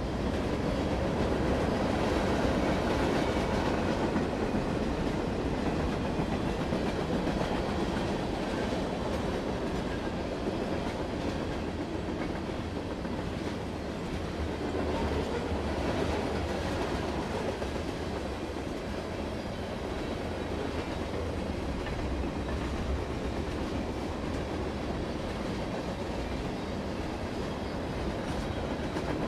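Norfolk Southern freight train of hopper cars rolling past, a continuous steady rumble of steel wheels on the rails.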